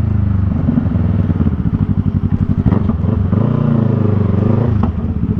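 Yamaha MT-03's parallel-twin engine through a Jeskap R3 Cup aftermarket exhaust, running at low revs with a distinct uneven pulse. A little past three seconds in the revs rise briefly, then drop back to the pulsing about five seconds in.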